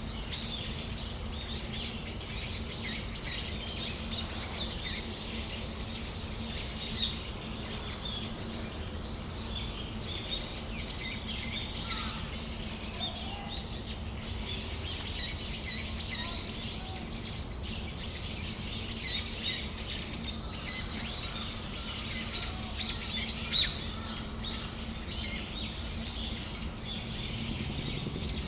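Brown-eared bulbuls calling: many short, high chirps and calls overlapping throughout, over a steady low hum.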